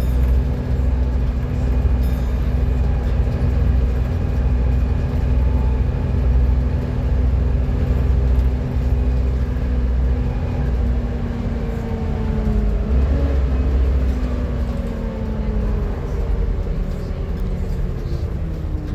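Volvo B7TL bus running with a loud whine, the 'hoover' noise, over a heavy low engine throb; about twelve seconds in the whine begins to fall in pitch as the bus slows.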